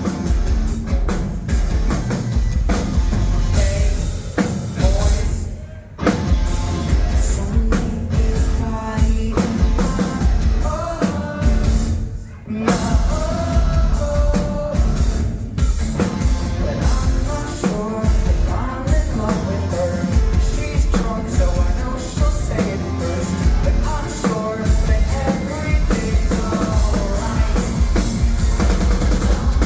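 Live rock band playing with a singer's vocals over a drum kit. The band cuts out for a split second twice, about six seconds in and again about twelve seconds in, then comes straight back in.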